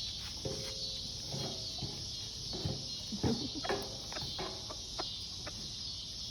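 Steady high-pitched chorus of crickets, with soft low clucks from chickens scattered through the first few seconds and a few sharp taps.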